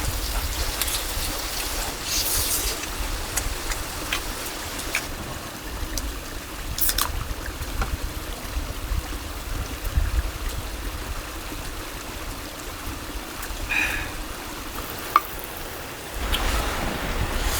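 Mountain stream flowing steadily, with a few light clicks and taps scattered over it and one sharper tick near the end.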